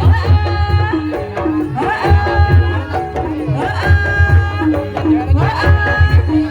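Live ebeg accompaniment music: kendang hand-drum strokes under a melodic line of long held notes that slide up into pitch.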